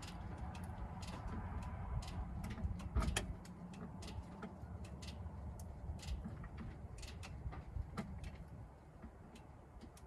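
Scattered small clicks and taps of a hand tool tightening loose fittings, with a sharper knock about three seconds in, over a low steady rumble.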